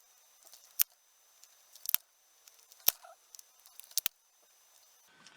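Sharp clicks and taps of small plastic parts, about one loud click a second with fainter ticks between, as the pico projector's heated back cover is worked loose.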